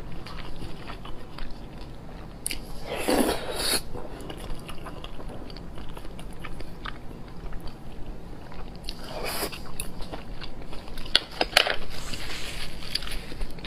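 Close-miked eating of spicy beef and pork: a steady run of small chewing and mouth clicks, with louder bites about three seconds in, about nine seconds in, and again near the end.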